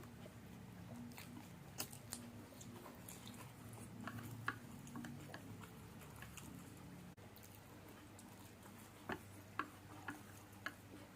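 A person eating fried noodles: quiet chewing with scattered short, sharp mouth clicks and smacks, over a low steady hum.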